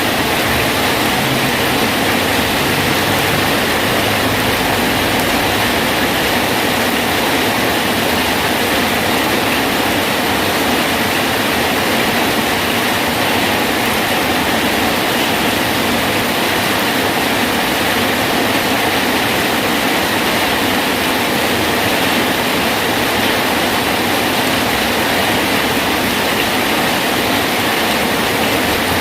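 Steady heavy rain falling on a bridge, an even, dense hiss with no breaks.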